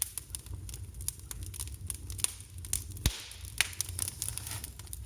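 Fire crackling in a brick fireplace: irregular pops and snaps over a low steady rumble, with one sharp crack about three seconds in.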